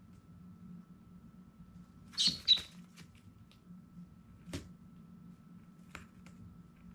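Baby chicks peeping: two loud, short high peeps about two seconds in, then a few fainter sharp clicks over a low steady hum.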